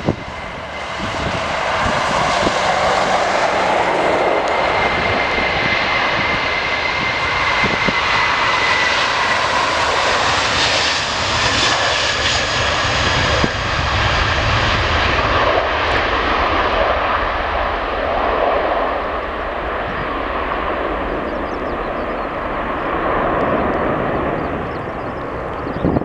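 Airliner engines passing close by, with a high whine over a broad rush. About ten seconds in the whine drops in pitch, and the sound then dulls to a lower rumble that slowly fades.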